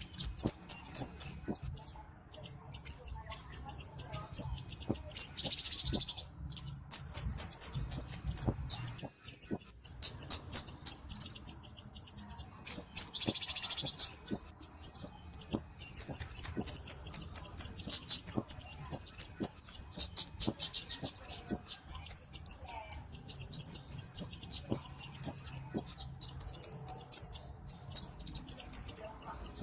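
A small Indonesian flowerpecker ("cabe-cabean", Kemade) singing fast, very high-pitched ticking trills. The trills come in runs of a few seconds with short pauses between them. Brief hissy rushes come about five and thirteen seconds in.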